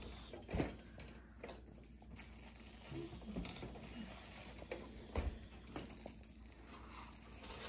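Scattered soft taps and rustling from small children playing on the floor, with a brief faint baby vocal sound about three seconds in.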